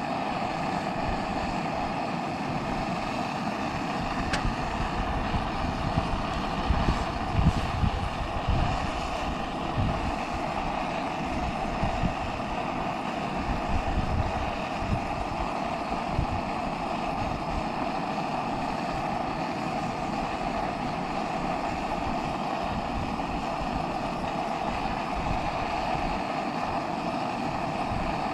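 Wind buffeting the microphone in irregular low gusts over a steady rushing hiss, with the strongest gusts about a third of the way in.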